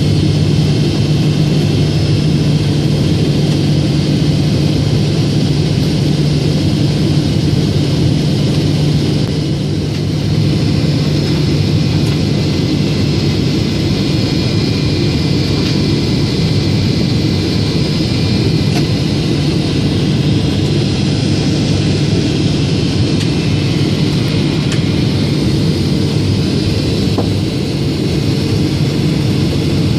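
Steady cabin noise inside a Boeing 777-200ER in flight on approach: engine hum and rushing airflow, with a constant low drone.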